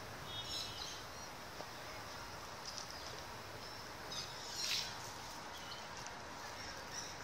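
Faint outdoor ambience with a few short, high bird chirps, the first about half a second in and a brighter one a little before the five-second mark.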